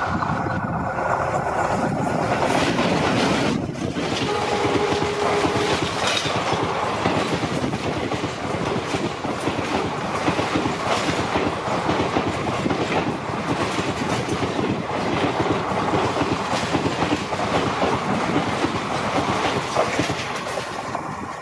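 Twin WDM3D ALCO diesel locomotives passing at speed, loudest about two to three seconds in. A long express train's coaches then rush past close by, their wheels beating a rhythmic clickety-clack over the rail joints. A short steady tone sounds about four and a half seconds in.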